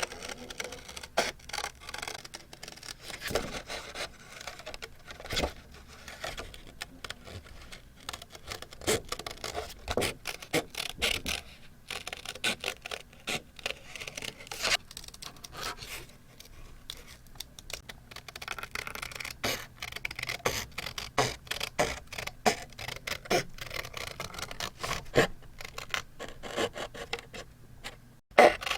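Paper being handled for scrapbook journaling: irregular scratching, rubbing and light tapping of paper.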